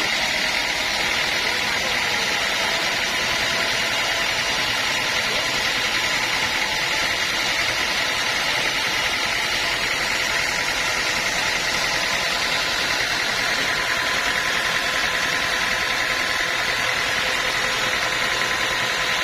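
Sawmill machinery running steadily: a constant mechanical drone with an even hiss and no breaks or changes.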